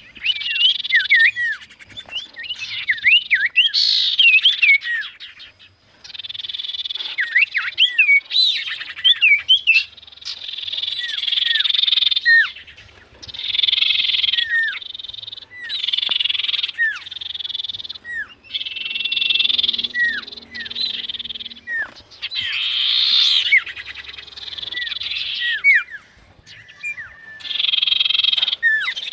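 Sirtu bird calling repeatedly with short, curved whistled notes over a dense buzzing chatter that comes in stretches of a few seconds with brief pauses.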